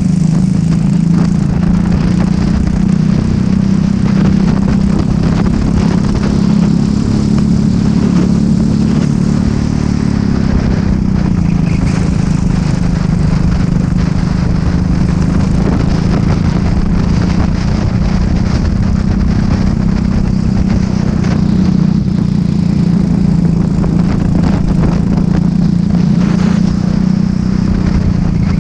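Racing kart engine running continuously at a fairly steady pitch, dipping slightly about ten seconds in before holding again, with road and wind noise.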